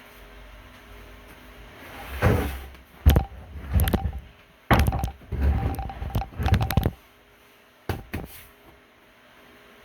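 A run of knocks and clunks from about two seconds in to about seven seconds, then two more about a second later.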